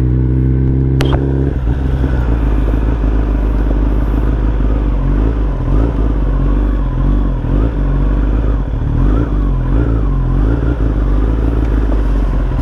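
Kawasaki ZX-10R motorcycle engine running under way, heard together with heavy low wind rumble. The engine note is steady for the first second and a half, and a sharp click comes about a second in.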